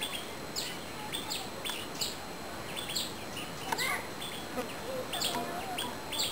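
Small birds chirping: a run of short, sharp, high chirps, about two a second, over a steady background hiss.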